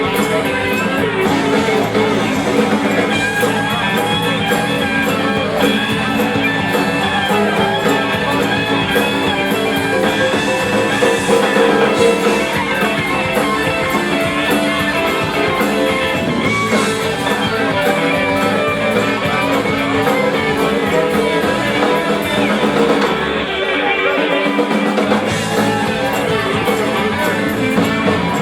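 Live rock band playing an instrumental passage: electric guitar with drums and bass.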